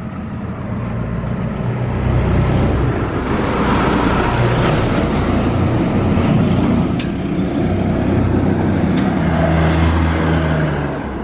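Yamaha Serow 225's single-cylinder four-stroke engine running, its engine speed stepping up and down as it is revved, with the revs building over the first couple of seconds and easing off near the end. The engine picks up revs cleanly with no abnormal noise.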